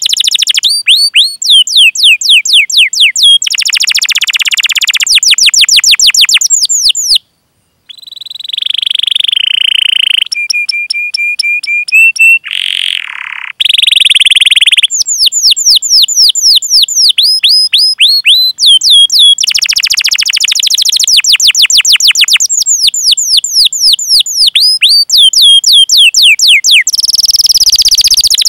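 Domestic canary singing a long, loud song of fast repeated down-slurred 'cuit cuit' chirps, about eight a second. The chirp runs are broken by shorter buzzy and trilled phrases, and by a brief pause about seven seconds in.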